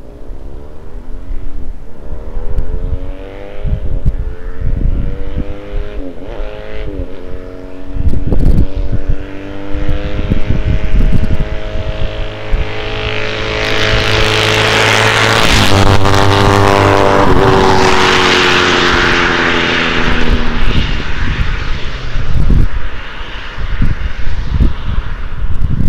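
A 2009 Johnny Pag FX3 300 cc motorcycle with no muffler and no catalytic converter, making a drive-by. The engine revs up through the gears, with short dips at the shifts, and gets loud as it passes close. Its pitch then drops and it fades away.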